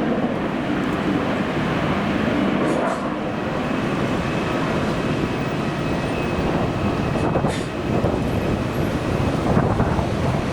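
Strong wind buffeting the microphone: a steady rushing rumble that gusts up and down, with a faint thin whine for a few seconds in the middle.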